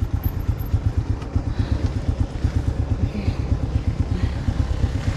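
Motorcycle engine running with a steady, fast low throb.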